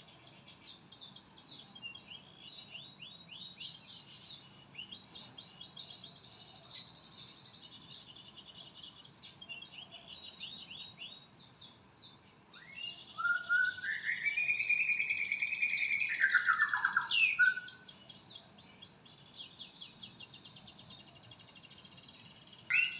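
Songbirds chirping in dense, rapid high trills, with one louder warbling call that rises and then falls from about thirteen to seventeen seconds in.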